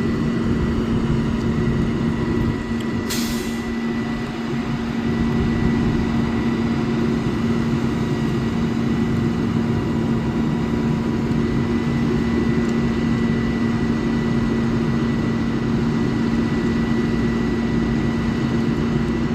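Crane's diesel engine running steadily under load with a constant drone, and a short hiss of released air about three seconds in.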